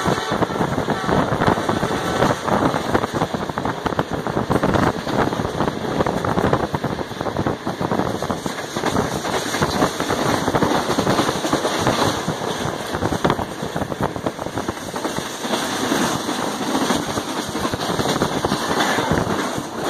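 Passenger train running at high speed, heard from inside the coach: a steady, loud, dense clatter of wheels on the rails and the carriage rattling.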